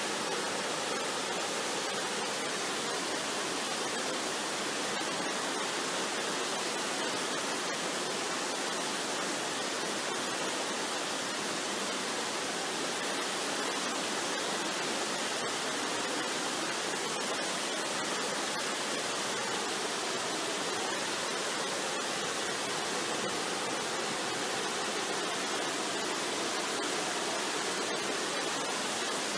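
Waterfall: water rushing in a steady, even roar of white noise.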